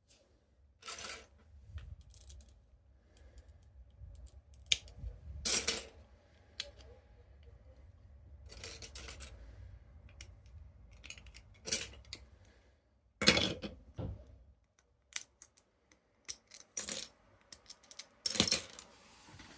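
Lego pieces clicking and rattling in irregular bursts as the brick-built model is handled, over a low rumble that stops about three-quarters of the way through.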